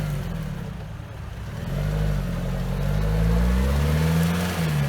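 Off-road vehicle's engine revving in rising and falling surges, dipping about a second in and then building louder, as the vehicle works through deep mud after sinking in.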